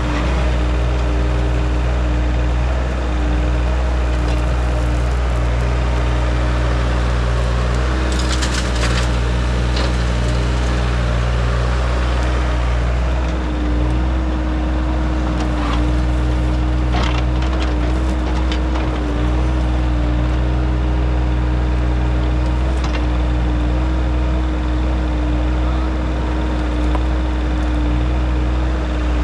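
Engine of an earthmoving machine running steadily under load, with intermittent cracks and scrapes as buried wood and debris are dug out of the fill.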